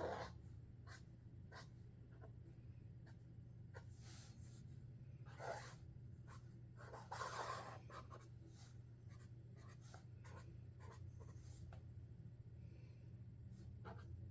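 Sharpie Creative Markers drawing: a run of short, faint scratchy strokes, with longer, louder strokes about five and seven seconds in, over a steady low hum.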